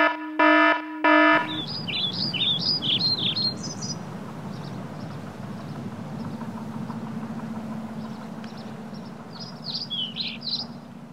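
Three short, evenly spaced electronic beeps, then an outdoor ambience of small birds chirping in two quick bursts over a steady low hum and background noise.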